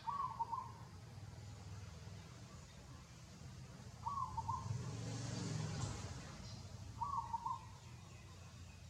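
A short animal call, repeated three times about three to four seconds apart, with a brief rustling noise swelling between the second and third calls.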